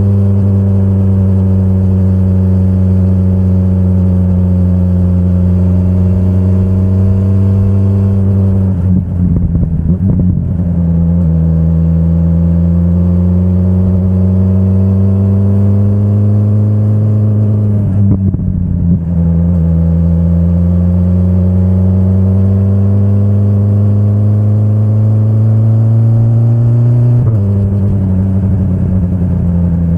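BMW S1000RR's inline-four engine running under steady throttle, its pitch climbing slowly. Twice the note breaks up briefly as the throttle is closed and then picks up again, and near the end the pitch drops suddenly as the bike shifts up a gear.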